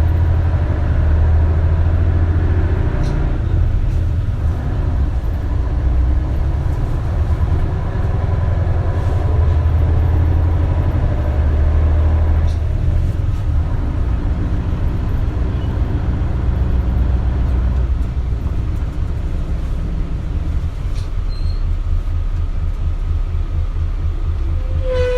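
Interior running sound of an Isuzu Erga KL-LV280L1 city bus: a low engine drone that swells and eases as the bus drives, settling into a slower, even throb near the end.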